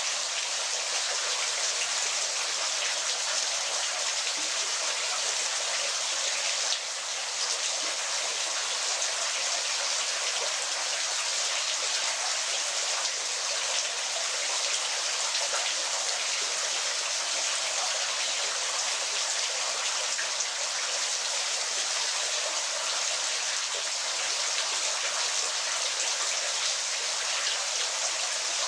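Waterfall water rushing and splashing in a steady, unbroken hiss, with a brief slight dip about seven seconds in.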